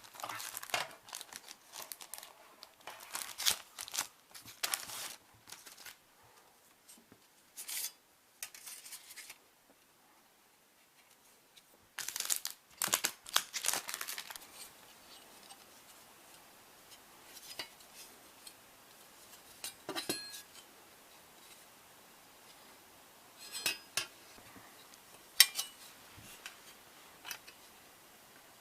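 Crinkling and tearing noises in repeated bursts, followed by scattered light clicks and taps, a few with a brief metallic ring.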